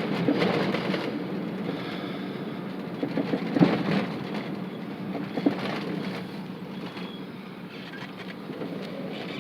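Steady low rumble of a moving vehicle, with a few knocks and rattles. The loudest knocks come about three and a half and five and a half seconds in.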